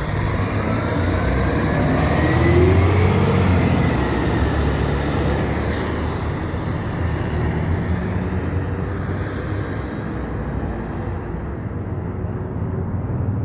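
Heavy truck's engine pulling past with rising pitch as it accelerates, loudest about two to three seconds in and then fading slowly as it moves away.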